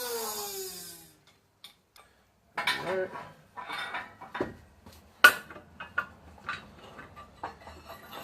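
Metal axle parts and tools clinking and knocking as they are handled and set down, with a ringing metal clang right at the start and a sharp knock about five seconds in.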